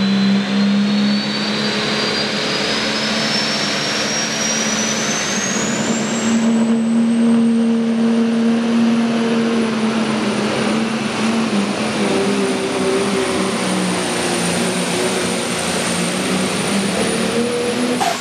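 Pro stock pulling tractor's turbocharged diesel engine running at high power, with a high-pitched turbo whine that climbs steadily for about six seconds and then holds; the engine backs off right at the end.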